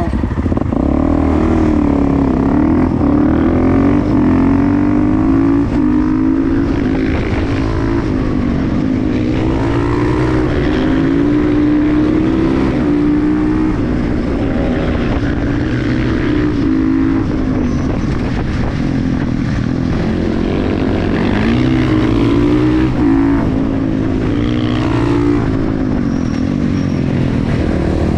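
KTM 350 EXC-F supermoto's single-cylinder four-stroke engine under way. The revs repeatedly climb and drop back as the bike accelerates and shifts through the gears.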